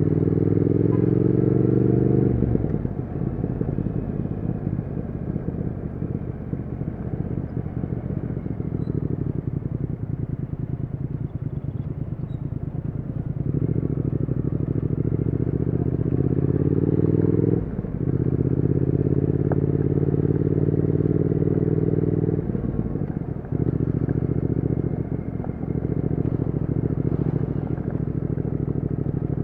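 Triumph Speed Twin 1200's parallel-twin engine and exhaust under way, rising in pitch under throttle, then easing off for several seconds. Past the middle it pulls again through a quick upshift, then eases off once more near the end.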